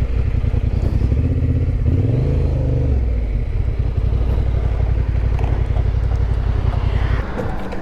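Yamaha Ténéré 700's parallel-twin engine running while riding, the revs rising briefly about two seconds in and the engine note falling away near the end as the throttle closes.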